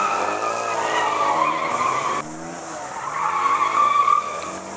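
Car engines revving up and down under a high, sustained squeal like skidding tyres. The squeal cuts out abruptly about two seconds in and picks up again a second later.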